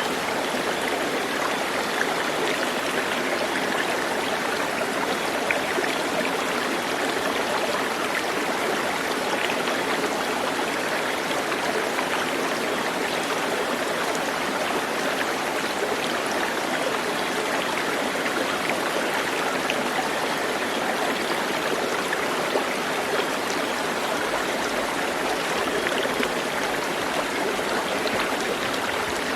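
Running water: a steady, even rush of a stream.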